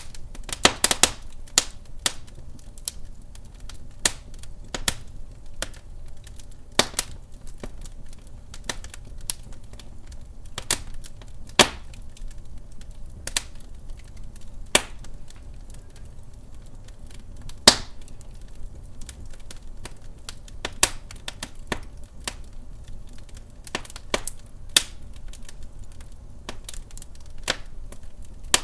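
Wood fire burning in a fireplace: irregular crackles and sharp pops over a low, steady rumble of flame. The loudest pops come about twelve and eighteen seconds in.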